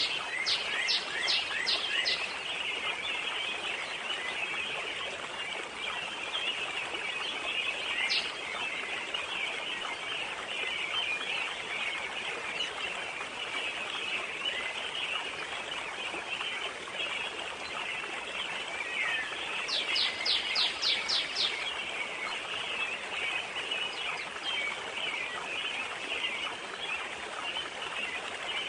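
Forest pond ambience: a steady wash of water and wind under a constant high chirring of insects. A songbird sings a quick run of about seven descending notes near the start, gives a single note about 8 seconds in, and repeats the run about two-thirds of the way through.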